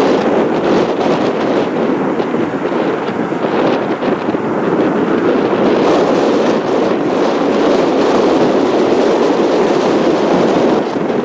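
Steady wind noise buffeting the microphone in strong gusting wind.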